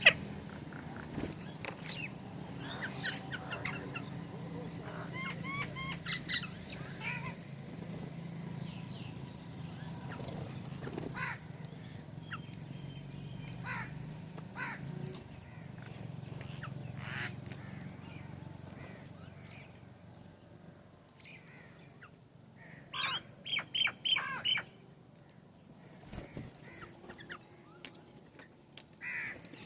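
Birds calling at a feeder: scattered short chirps and calls throughout, then a quick run of loud, harsh calls a little over three-quarters of the way through.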